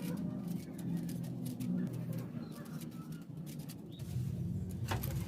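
A dove cooing in low, repeated phrases, with scattered sharp clicks and taps over it that grow more frequent near the end.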